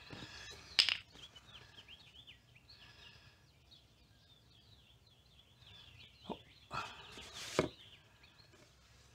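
Faint bird chirping and twittering in the background, with a sharp click just under a second in and a couple of knocks and a short rustle near the end.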